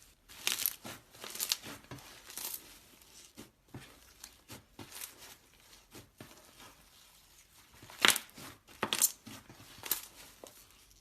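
Slime being squeezed and stretched by hand, giving irregular crackling and popping. The crackles come in two busy spells, in the first few seconds and again from about eight seconds in, with sparser pops between.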